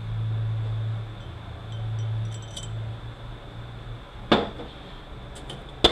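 Metal transmission parts and tools clinking and knocking on the bench: a few light ringing clinks, then a sharp metallic knock about four seconds in and another near the end. A low hum runs under the first half.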